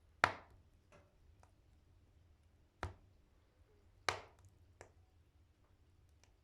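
Firewood burning in a wood stove with its door open, crackling: a few sharp pops a second or more apart, the loudest right at the start, with fainter snaps between.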